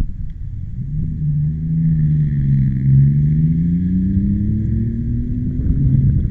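A motor vehicle's engine running, its pitch dipping about halfway through and then rising again, over a low steady rumble.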